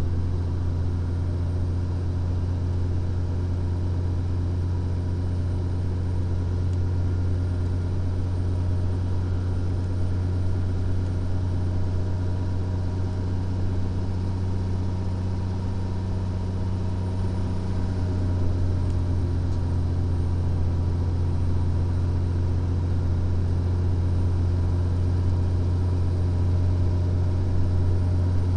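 Steady low drone of a Freightliner Columbia semi truck's diesel engine and road noise, heard inside the cab. It swells slightly about two-thirds of the way through.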